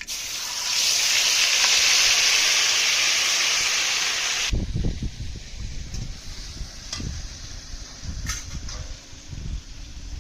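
Bay leaves and spices hitting hot oil in a pan, a loud hissing sizzle that cuts off suddenly about four and a half seconds in. Low rumbling with a few faint clicks follows.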